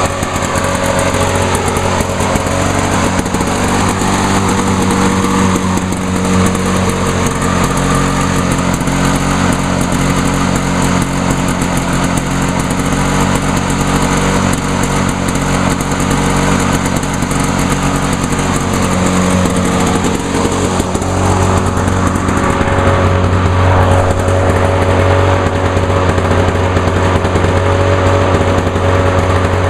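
Lawn-Boy 8461 commercial mower's two-stroke engine running steadily at speed, burning off the Seafoam cleaner that was left to soak in the cylinder.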